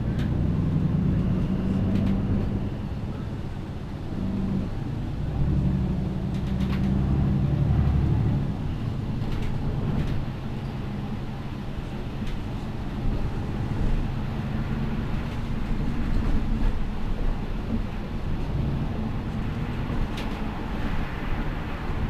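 MAN Lion's City G articulated city bus's diesel engine running under way. It is louder and pulling harder twice in the first eight seconds, then runs more quietly and steadily.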